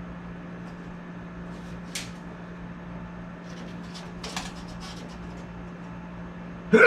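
A steady low hum with a few faint light clicks and taps, like tools or parts being handled.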